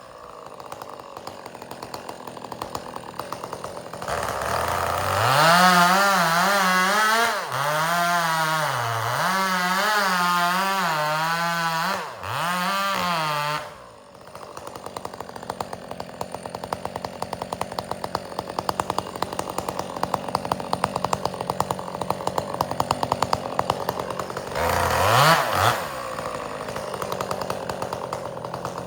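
Two-stroke chainsaw idling, then opened up about four seconds in and held at high speed with its pitch dipping and recovering again and again as it bucks firewood. It drops back to a steady idle about halfway through, with one short blip of the throttle near the end.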